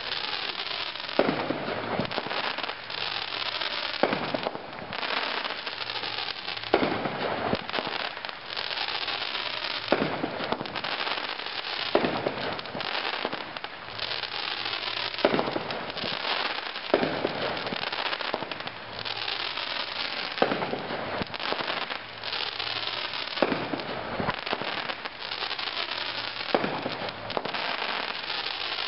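Brothers 'Gunslinger' consumer firework cake firing: a loud shot about every one and a half to two seconds over continuous crackling.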